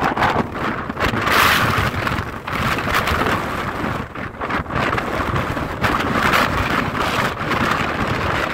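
Strong typhoon wind buffeting the microphone in uneven gusts, with a low rumble beneath.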